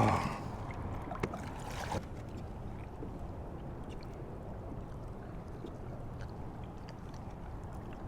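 Water lapping against the hull of a fishing kayak, a steady low wash, with a short rush of noise and a light knock in the first two seconds.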